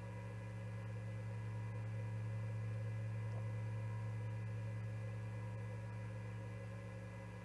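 Steady low electrical hum with a few faint steady tones above it, swelling slightly in the middle and easing off again. Nothing else is heard.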